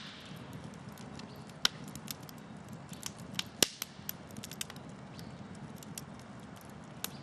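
Campfire crackling, with irregular sharp pops over a low steady hiss; the loudest pops come about one and a half and three and a half seconds in.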